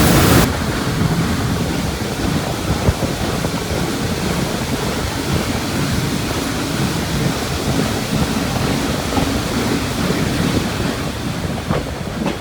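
A train rolling along the track: a steady rushing rumble, with a few faint clicks near the end.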